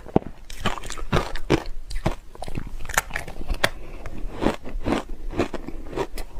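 Ice being bitten and chewed: a steady run of sharp, crackly crunches, about two a second.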